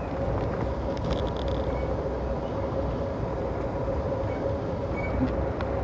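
Passenger train running along the rails, heard from inside the car: a steady rumble and rattle of the wheels with a faint steady hum, and a brief clatter with a higher ring about a second in.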